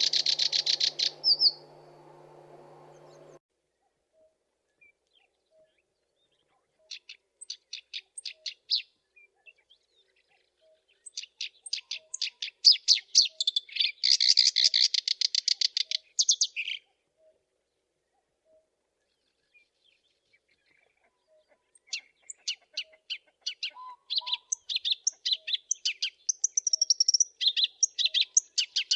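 Black-browed reed warbler singing: phrases of rapid, repeated high notes a few seconds long, broken by pauses of several seconds.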